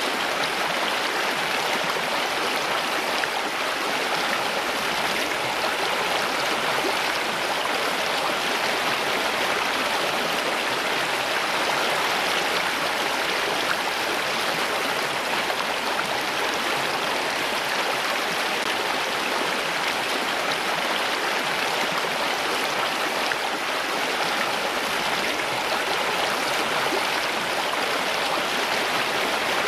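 Running water rushing steadily, like a stream, an even unbroken hiss with no separate splashes or drips standing out.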